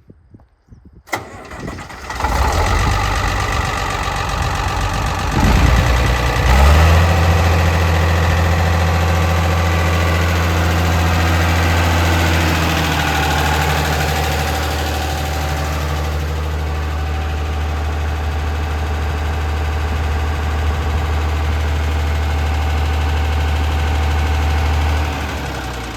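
International Harvester 706 tractor's six-cylinder diesel engine starting: a click, a brief crank and it catches about a second in. It revs up with a rising pitch around five seconds in, then settles to a steady idle and drops off near the end.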